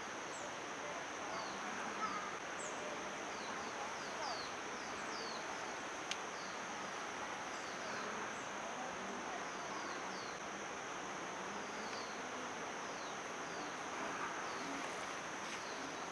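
Rural ambience: a steady high-pitched insect drone over a hiss of background noise, with many short, falling high chirps from small birds scattered throughout.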